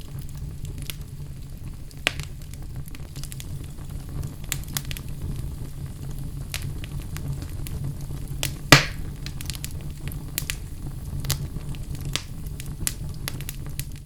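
Wood fire burning in a fireplace: a steady low rumble of flames with scattered crackles and pops, one much louder pop just under nine seconds in.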